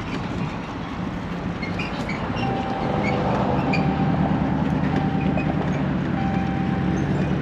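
Truck engine running as the loaded scrap truck pulls forward onto the scale, growing louder about three seconds in, with light rattles over it.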